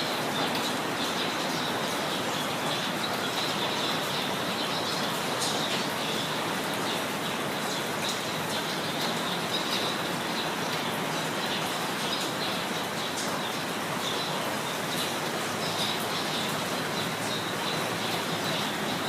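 Steady rain falling, with birds chirping intermittently over it.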